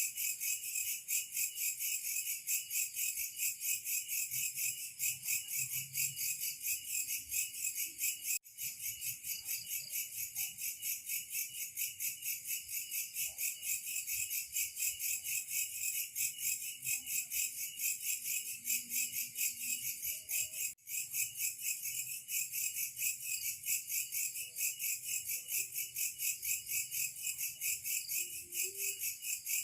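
Chorus of night insects such as crickets, a dense, high, rapidly pulsing trill that keeps going throughout. It drops out for an instant twice.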